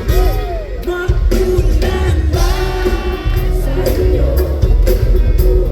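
A pop band playing live, with sung vocals over heavy bass, drums and a held keyboard or guitar tone.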